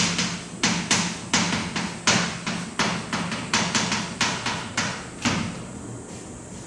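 Handwriting on a board or page: a quick, irregular run of short tapping and scratching strokes, several a second, that stops about five seconds in.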